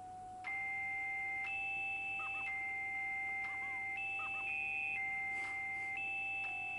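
Electronic tones from an image-to-sound sequencer app on an iPod: a held low tone under higher beep-like tones that step to a new pitch about once a second, getting louder about half a second in.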